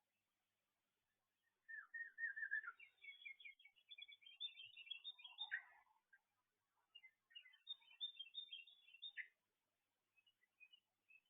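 A small songbird singing two fast, warbling song phrases of jumbled high notes. The first opens with a short trill about two seconds in, and the second comes about seven seconds in.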